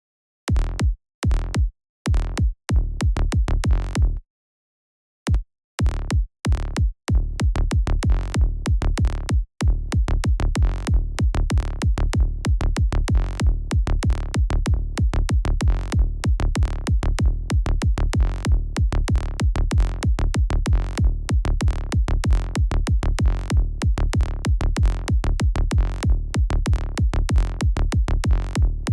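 Synthesized electronic kick drum and bass line looping: mostly deep bass, with a sharp click on each hit. It starts and stops several times in the first few seconds, pauses briefly about four seconds in, then plays continuously from about ten seconds in.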